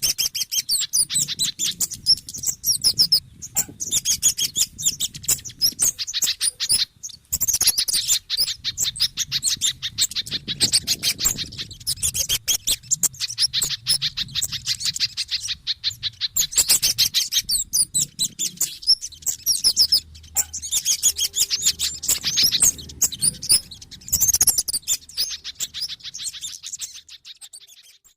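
Bird-lure recording of agitated, excited small-bird calls, a mix of kemade, sogon (sunbird) and pijantung (spiderhunter) calls: fast strings of high, sharp chirps, many per second, in runs broken by short pauses, with a faint low hum beneath.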